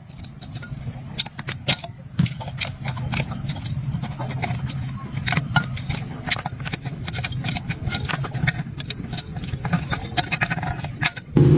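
Steady low hum with many irregular clicks and taps over it; a much louder steady low sound starts right at the end.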